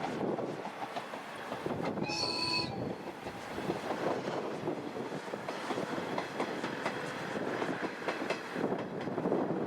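A KiHa 110-series diesel railcar running along the track, its wheels clattering over the rail joints. It gives one short, high horn blast about two seconds in.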